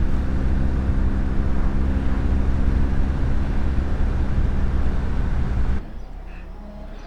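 BMW R1200GS Adventure's boxer-twin engine running steadily at road speed under a broad rush of wind. It cuts off abruptly near the end to a much quieter background.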